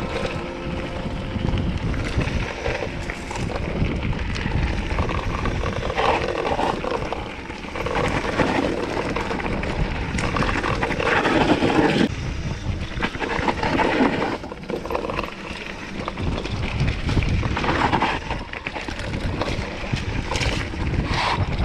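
Wind buffeting the microphone: a gusty low rumble that swells and dips.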